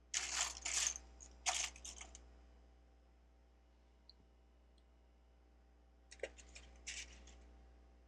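Plastic Lego bricks clicking and clattering as they are handled, in three short bursts of small rattling clicks.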